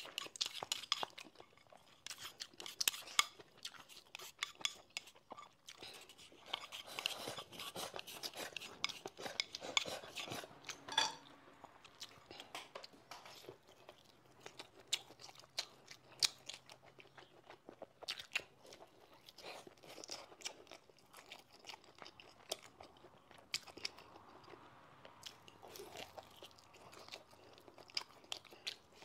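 Close-miked eating: biting into and chewing a braised chicken drumstick, a dense run of short sharp wet mouth clicks and crackles.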